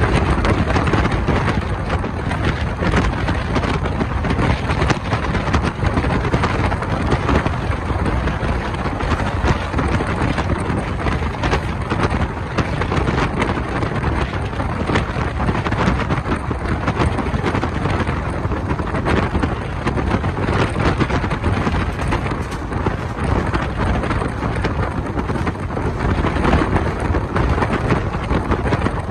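Passenger train running at speed, heard from an open coach window: steady noise of the wheels on the rails and the moving coaches, mixed with wind buffeting the microphone.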